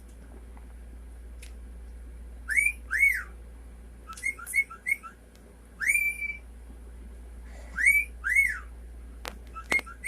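Cockatiel whistling: clear upslurred whistles that rise to a high note and are held or fall away, coming in twos and threes a second or two apart. A couple of sharp clicks near the end.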